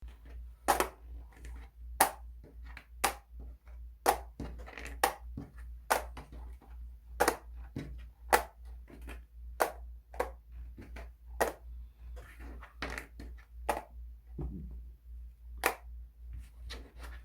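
Small craft pieces being handled on a hard surface: a run of irregular sharp clicks and taps, about one or two a second, over a low steady hum.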